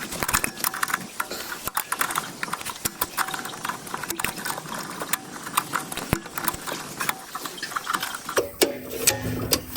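Irregular clicking and scraping of hand tools and small metal parts being worked inside a pressure washer burner's igniter box.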